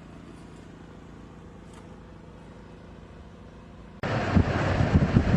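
A faint, steady low vehicle engine hum, then about four seconds in an abrupt cut to loud, gusting wind buffeting the microphone.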